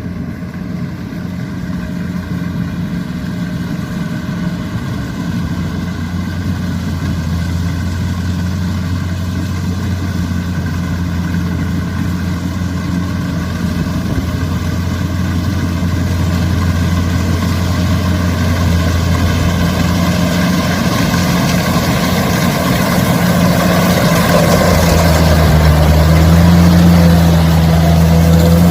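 Kubota rice combine harvester running with a steady engine hum that grows gradually louder, with a rushing noise building over the last several seconds.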